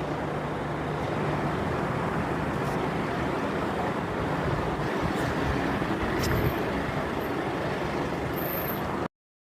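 Steady engine noise with a faint low hum and no change in pace, cutting off abruptly about nine seconds in.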